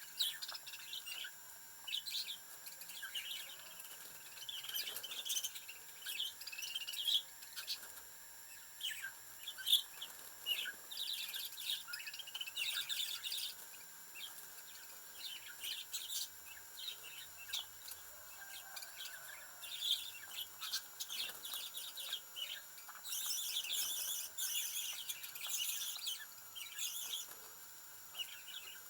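Budgerigar chirping and chattering: short, quick calls one after another, with a denser stretch of chatter near the end.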